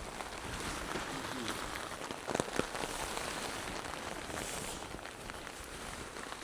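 Steady heavy rain falling on a surface, with a couple of short sharp knocks about two and a half seconds in.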